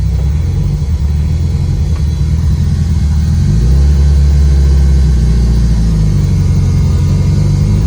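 Built Subaru Impreza's engine running as the car drives, heard as a low, steady drone inside the gutted cabin. It grows louder partway through.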